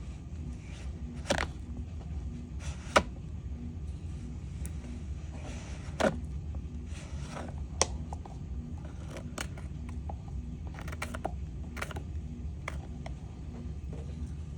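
Scattered light clicks and taps from small objects being handled at a resin-crafting table, over a steady low hum. The loudest clicks come about 1.5, 3, 6 and 8 seconds in.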